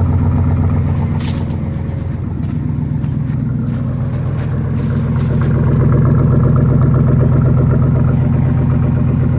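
GMC Yukon engine running at idle just after a reluctant cold start, having sat unused for two weeks in freezing weather; it runs steadily and gets a little louder about halfway through.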